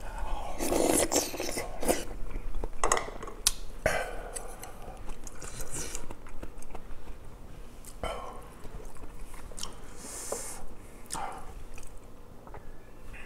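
A person eating close to the microphone: a big mouthful of soft tofu and cheonggukjang soybean stew taken in, then wet chewing and mouth smacking with short clicks. The loudest eating sounds come in the first few seconds.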